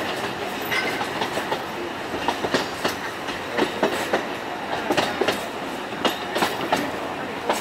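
Alishan Forest Railway narrow-gauge train running, its wheels clacking irregularly over the rail joints under a steady rumble, heard from inside the carriage.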